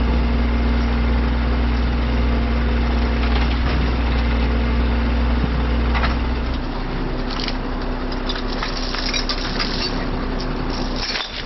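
Heavy truck's engine idling steadily. About two-thirds of the way through, its deep low rumble drops away while a steadier hum carries on, and scattered sharp clicks follow.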